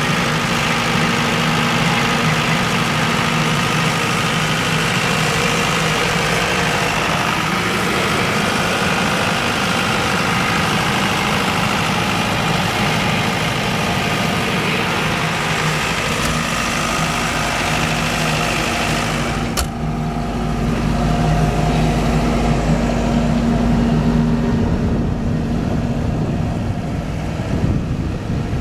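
Silenced 50 kVA diesel generator running steadily. About two-thirds of the way in there is a sharp click, and after it the sound turns duller with a stronger low rumble.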